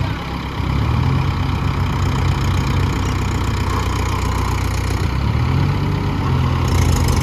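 Tractor diesel engine running, rising about a second in and again after a brief easing near the five-second mark, as during a tow out of mud.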